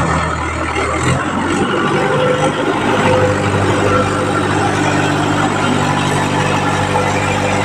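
Tractor diesel engine running, a steady drone that steps up in pitch about a second in and then holds.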